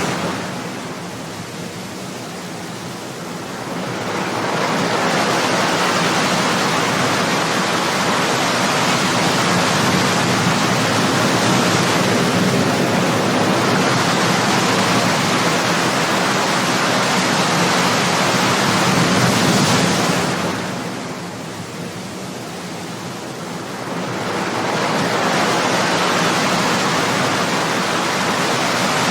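Ocean waves washing on a shore: a continuous rushing surf that eases into a quieter lull just after the start and again about two-thirds of the way through, each time building back up over a few seconds.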